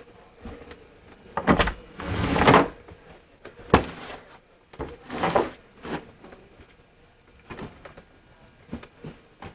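Scattered knocks, clicks and brief rustles of things being handled. The loudest is a rustling burst about two seconds in, followed by a sharp knock a little later.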